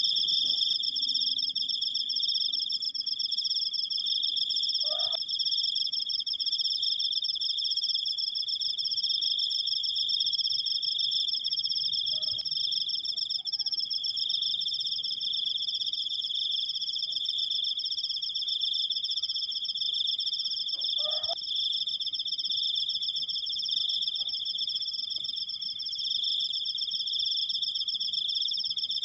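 Cricket singing one long, unbroken high-pitched trill, steady throughout. Two faint short chirps from another creature sound under it, about five seconds in and again near twenty-one seconds.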